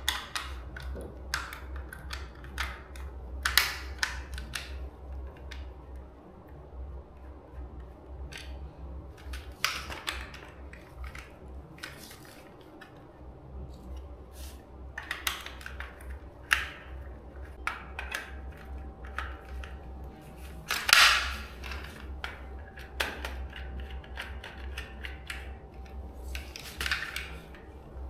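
Small parts and hand tools being handled in a repair: irregular clicks, taps and short scrapes over a steady low hum, with one louder scrape near the middle.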